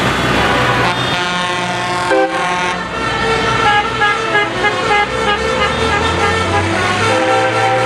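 Tractor engines running as they pass, then from about a second in a tune of stepped horn tones sounding over them, the notes changing every few tenths of a second.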